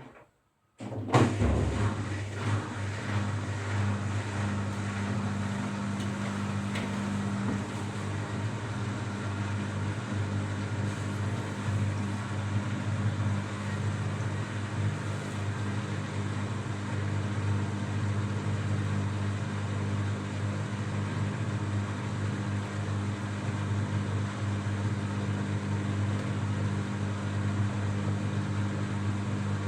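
Washing machine running, a steady motor and drum hum with a low drone, starting with a knock about a second in.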